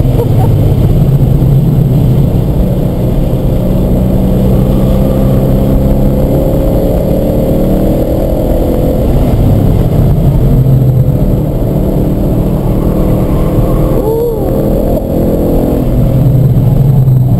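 Car engine run hard on a track lap, heard from inside the car, held near 5,000 rpm with its pitch climbing under full throttle, then a downshift from fourth to third gear later on.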